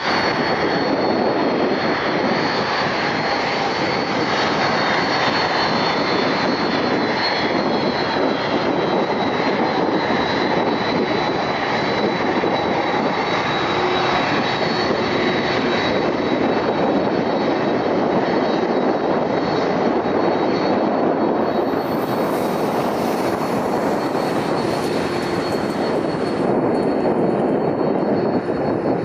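Boeing 767-400ER's twin General Electric CF6-80C2 turbofans at takeoff power: a steady, loud jet noise with a thin high whine running through it.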